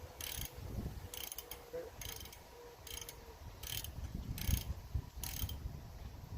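Hand ratchet wrench worked in short strokes on a mini truck's wheel or brake fasteners: a brief burst of ratchet clicking about every 0.8 seconds, eight strokes in all, with a few low knocks partway through.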